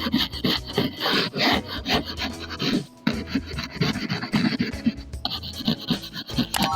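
Quick, repeated rubbing strokes on paper, as in colouring or drawing by hand on a paper craft.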